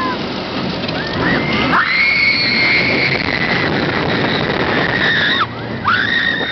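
Roller coaster riders screaming: one long high scream held for about four seconds, then a shorter one near the end, over the steady rush and rumble of the moving coaster.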